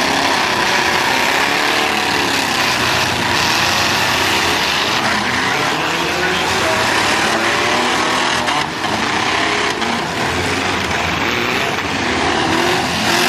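Demolition derby cars' engines revving up and down together, loud and continuous, with a few brief knocks of impacts.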